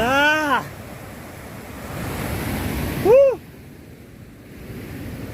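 Steady rushing noise of a waterfall, with wind buffeting the microphone. Two short voice exclamations that rise and fall in pitch cut through it: one at the start and one about three seconds in.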